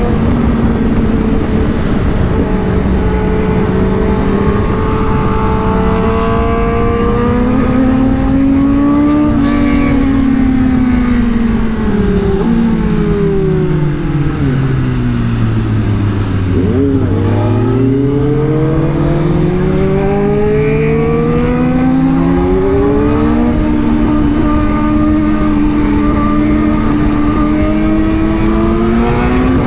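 Superbike engines running at steady high revs, then easing off so their pitch falls for several seconds about halfway through, and climbing again as the bikes accelerate before settling at a steady cruise.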